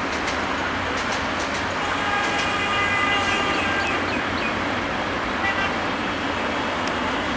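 Steady running noise of a passenger train heading away down the track, mixed with road traffic. A horn sounds for about two seconds from about two seconds in, and briefly again about five and a half seconds in.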